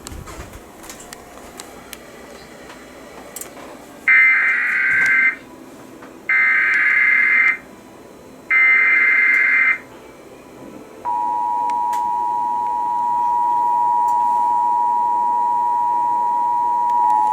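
Emergency Alert System header: after a few seconds of faint radio hiss, three identical warbling data bursts of the SAME header, each about a second long, sound with short gaps between them. They are followed by the steady two-tone EAS attention signal. Together they open a relayed special marine warning.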